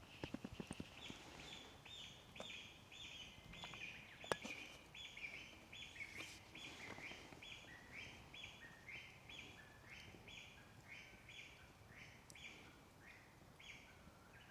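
A bird calling a long series of short, evenly spaced notes, about two a second, slowly stepping down in pitch, faint against the forest background. A few light ticks at the start and one sharp click about four seconds in.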